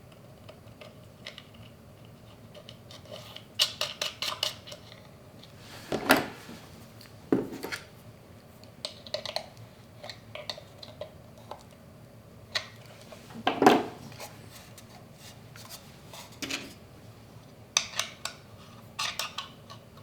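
Small metal hardware and hand tools clinking and clicking during bench work on a battery's brass terminal knobs and wiring, in irregular bursts of light ticks with a few louder knocks.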